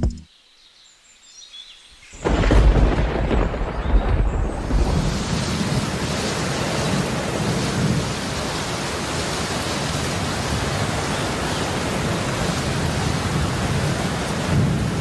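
A sudden deep rumble about two seconds in, followed by a steady, loud rushing noise.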